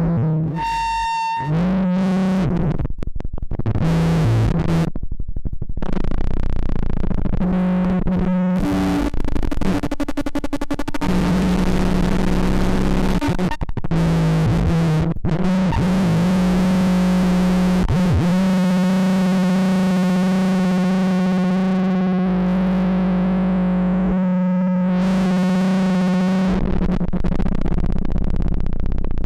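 Soma Lyra-8 analog synthesizer played as a distorted drone instrument: pitched drones with many overtones that start and cut off abruptly and shift in texture, settling into one long steady drone through most of the second half.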